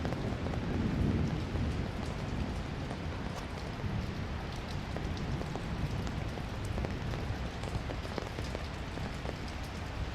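Steady rain falling on a city street, with scattered sharp drop ticks. A low rumble swells about a second in and then fades back into the rain.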